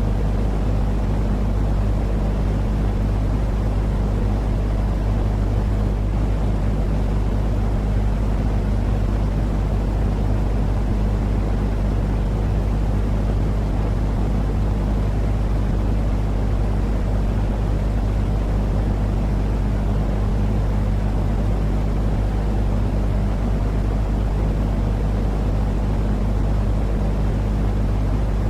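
Continuous white-noise track for lulling a baby to sleep: a steady, deep rumbling hiss with a constant low hum, unchanging throughout.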